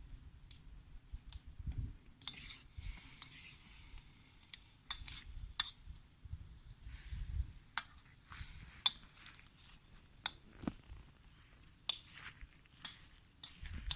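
Lardons cooking in a wok over a campfire: a utensil scraping and clicking against the pan while it is stirred, with many sharp clicks and pops scattered throughout and patches of hiss.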